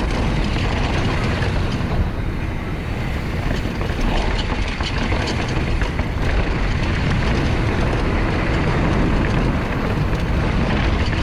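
Mountain bike rolling fast over a rocky trail: a steady low rumble of wind on the microphone and tyres on rock, with small rattles and clicks from the bike throughout.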